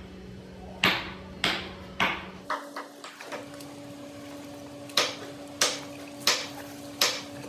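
Hammer blows on metal, each a sharp ringing strike, coming in two runs about 0.6 s apart with a pause of about two seconds between them. A steady machine hum runs underneath.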